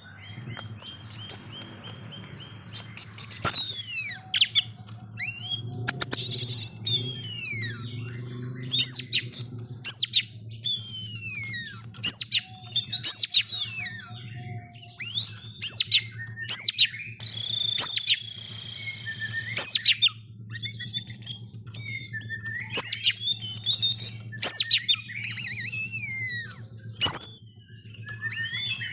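Oriental magpie-robin (kacer) singing hard in its agitated 'ngamuk' fighting mode: a fast, loud string of sharp downward-sliding whistles and chirps, with a harsh buzzy note about two-thirds of the way through.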